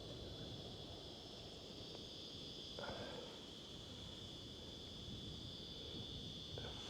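Insects buzzing in a steady, unbroken high drone, faint.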